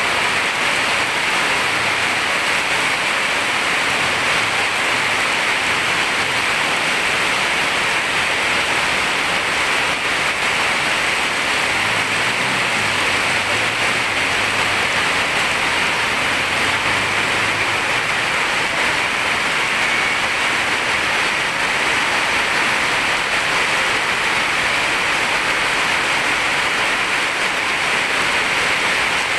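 Heavy rain pouring steadily in a downpour, an even hiss with no break.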